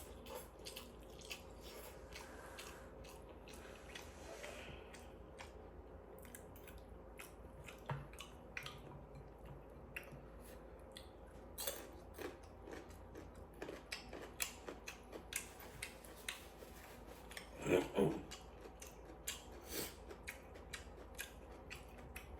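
Quiet eating sounds: scattered small clicks and taps of utensils with chewing of spicy noodles. One louder, brief noise comes about 18 seconds in.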